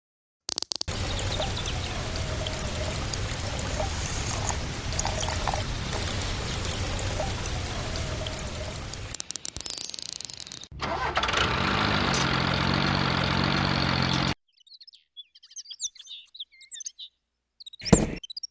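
A string of cut-together sounds: a long, even rushing noise, then a small motor running with its pitch stepping down, which stops abruptly, then faint bird chirps and a single sharp click near the end.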